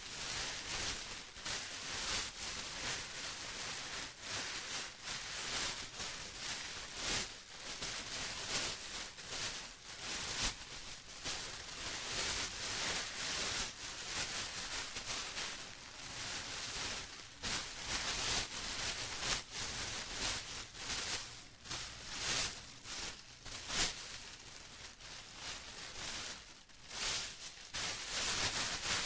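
Plastic rustling and crinkling without a break, in quick irregular crackles.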